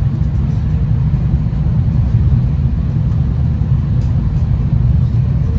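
Steady low rumble of a V/Line passenger train running along the line, heard from inside the carriage, with faint light ticks over the top.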